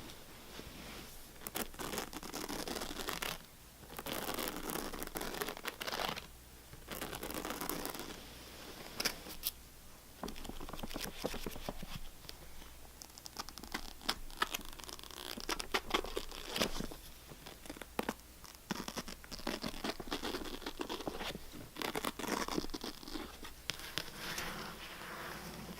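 Scratching on a hard surface in stretches of a second or two, broken by short pauses and scattered sharp taps and clicks.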